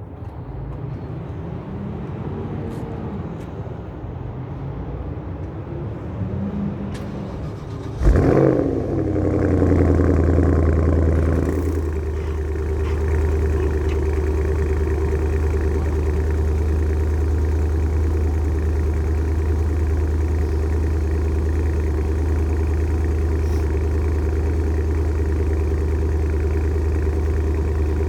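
2012 Porsche Panamera Turbo S twin-turbo V8 starting about eight seconds in with a sharp rev flare, then settling within a few seconds into a steady fast idle: the cold-start high idle.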